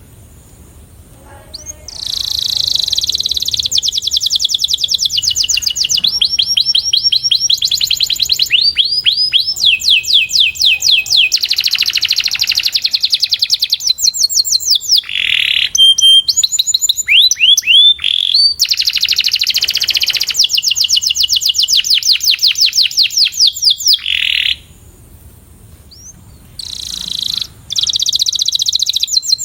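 Canary singing a fast song of rapidly repeated high trilled phrases, one phrase running straight into the next. The song starts about two seconds in and breaks off briefly near the end before resuming.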